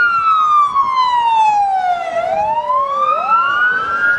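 Two police car sirens wailing together, slightly out of step: each glides slowly down in pitch, bottoming out about two to three seconds in, then rises again. These are responding emergency vehicles approaching a crash scene.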